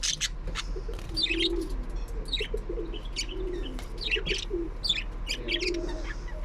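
Birds calling: short low coos repeating about once a second, mixed with many quick high chirps, over a steady low electrical hum.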